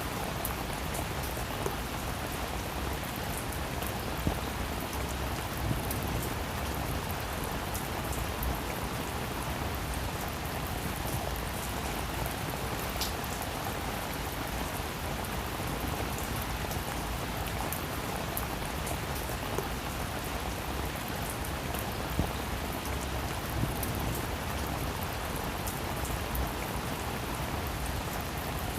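Steady rain falling on a roof, a continuous patter with a few sharper single drop hits standing out now and then.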